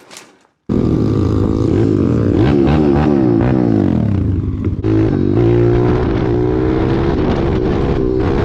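Pit bike engine running hard, its pitch rising and falling repeatedly as the throttle is worked. The sound cuts in abruptly just under a second in, with a brief drop in pitch about five seconds in.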